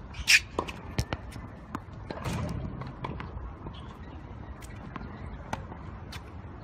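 Tennis ball struck by a racket and bouncing on the court during a rally: a sharp pop just after the start, lighter knocks about a second in, then scattered faint clicks.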